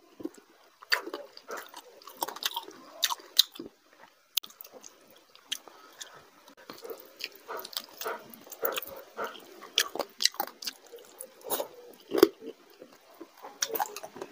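A person chewing mouthfuls of rice and chicken curry eaten by hand, with fingers mixing rice and curry on the plate; irregular clicks and smacks throughout.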